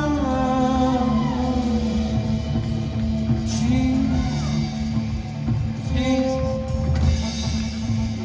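Live band playing an instrumental passage: sustained melodic notes that slide and bend in pitch over steady drums and bass.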